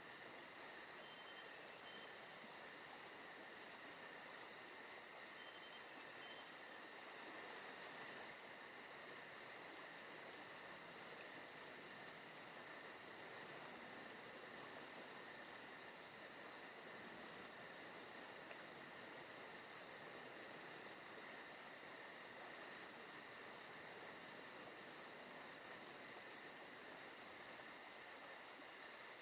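Faint forest ambience of crickets and other insects trilling steadily, with a fast, even, high-pitched pulsing over a constant hiss.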